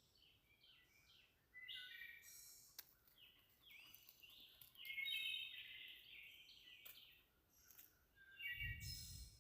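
Wild birds chirping and calling repeatedly in short, varied notes, faint. A brief low rumble comes near the end.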